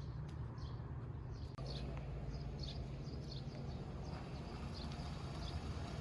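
Small birds chirping in short, high, repeated calls over a steady low hum, with a brief break about one and a half seconds in.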